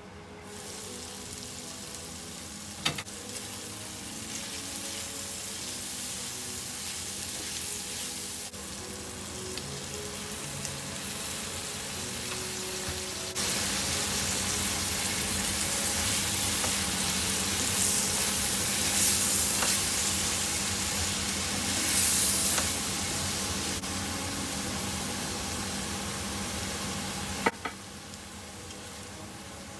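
Pork ribs and bell peppers sizzling as they fry in a pan, the hiss getting louder about halfway through. There is a sharp clack about three seconds in and another near the end.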